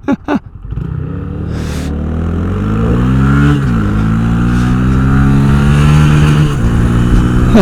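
Two short clicks, then a Honda Grom's 125 cc single-cylinder engine accelerating under throttle: the pitch climbs, drops at an upshift about three and a half seconds in, climbs again and drops at a second upshift near the end.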